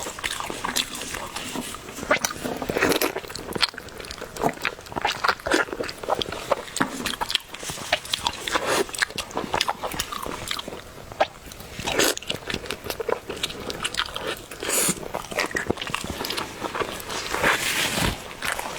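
Close-miked eating: a person biting and chewing food, with many irregular wet mouth clicks and crunches.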